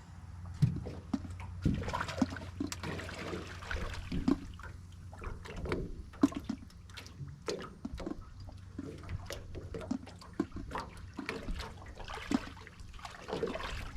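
Water sloshing and splashing around an aluminum Alumicraft 1232 jon boat, with many short knocks against the hull.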